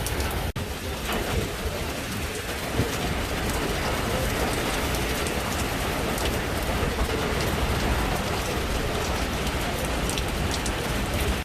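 Heavy hurricane rain coming down steadily, a constant hiss of the downpour, with a brief dropout about half a second in.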